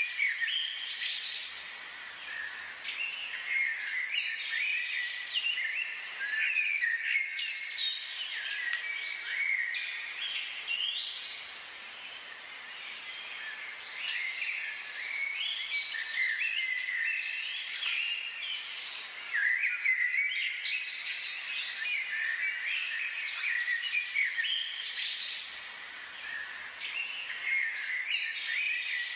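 Many small birds chirping and singing together in a dense, overlapping chorus of quick high chirps and trills.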